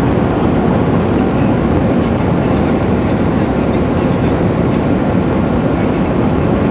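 Steady engine and airflow noise of a Boeing 787 Dreamliner heard from inside the passenger cabin, an even rushing rumble with no change in level.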